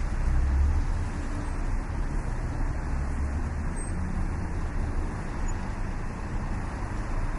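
Street traffic ambience: a steady rumble of passing vehicles, loudest about a second in and again around three seconds.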